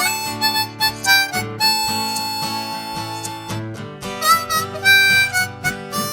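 Harmonica playing a melody line with a few bent notes, over strummed acoustic guitar.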